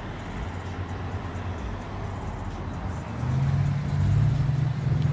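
A motor vehicle running with a steady low hum, louder from about three seconds in.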